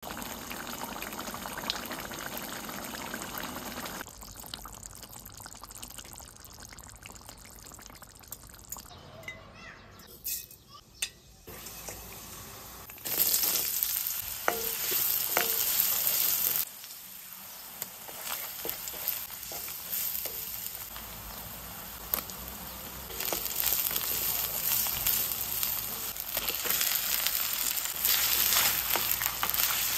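Food frying in a pan: onions and then chicken pieces sizzling in hot oil and being stirred with a spoon. The sound comes in several short stretches that start and stop abruptly, loudest when the onions and then the chicken are frying.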